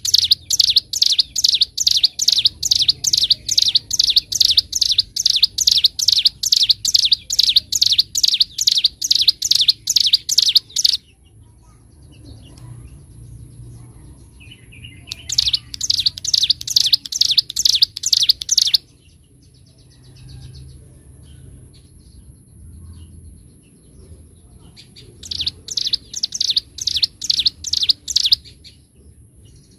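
Ciblek gunung, a prinia, singing loud runs of sharp, rapidly repeated high notes, about three a second: one long run of about ten seconds, then after a pause a shorter run about halfway through and another near the end. A faint steady high whine sits in the pauses.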